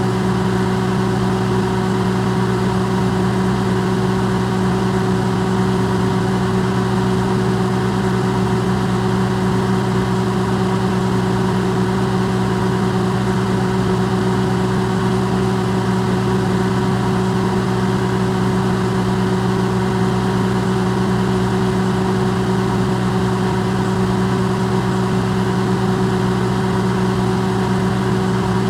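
Electrolux microwave oven running, recorded amplified: a loud, steady hum with a strong low drone and a few fixed higher tones, unchanging.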